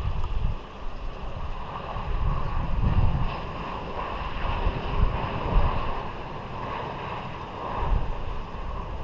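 Distant jet airliner engines, a steady rushing noise, with wind buffeting the microphone in uneven gusts.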